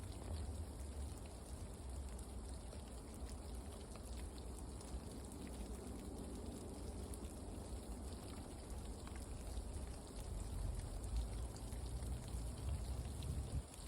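Faint outdoor ambience: an even hiss with scattered soft ticks over a low rumble.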